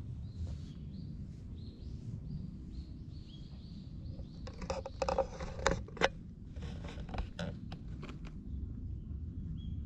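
A small bird chirps in a quick series, about two calls a second, for the first few seconds over a low steady rumble. Around the middle come louder close rustling and knocks as the cat's fur and body brush against the camera.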